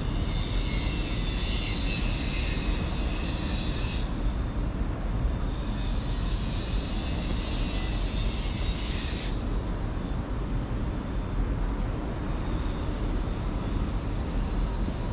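Harley-Davidson Street 750's V-twin, fitted with a Vance & Hines slip-on exhaust, running steadily with a low, even exhaust note. A high steady buzz lies over it, breaks off about four seconds in, returns, and stops about nine seconds in.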